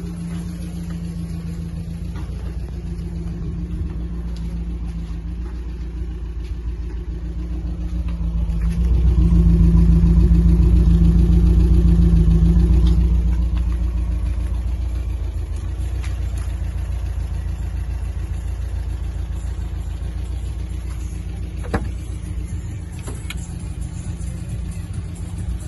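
Fiat Punto GT Turbo's 1.4-litre turbocharged four-cylinder idling steadily. For a few seconds in the middle it is louder, heard close to the tailpipe.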